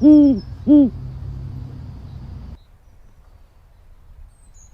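Owl hooting twice in quick succession; each hoot is short and rises then falls in pitch. A steady low hum runs underneath and cuts off about two and a half seconds in.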